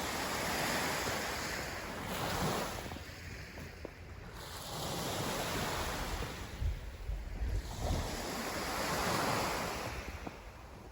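Wind rushing over the microphone, swelling and fading in gusts every few seconds, with low rumbling buffets in the middle.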